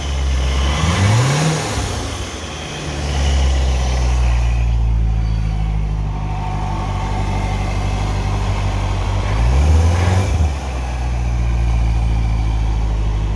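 Car engine being revved: a short rev about a second in that drops back, steady running, then a second brief rev near the end before it settles back to a steady run.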